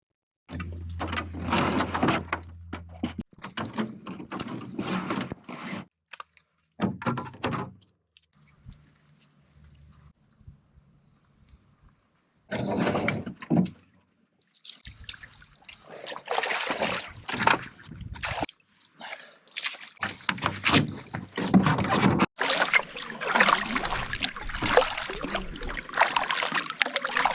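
Water splashing and sloshing, as from a canoe being paddled, heard in a string of short clips that start and stop abruptly. A quieter stretch in the middle carries a run of evenly spaced high chirps, about two or three a second.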